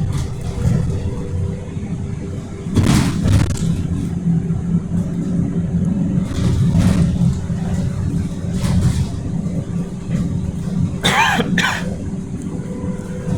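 Scania K230UD single-deck bus running along, heard from inside: a steady low engine and road rumble with a constant drone. A few short bursts of noise come and go, and a brief wavering squeal sounds about eleven seconds in.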